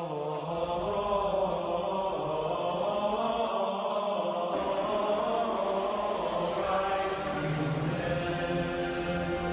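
A man's voice chanting a long, held meditation mantra, a steady drone with the pitch shifting about seven seconds in, with music underneath.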